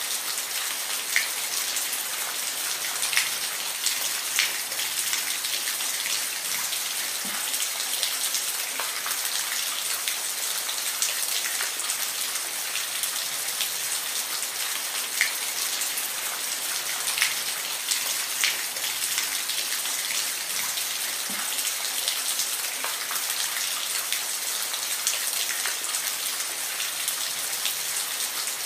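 Steady rain falling, a constant hiss with scattered louder individual drops landing near the microphone.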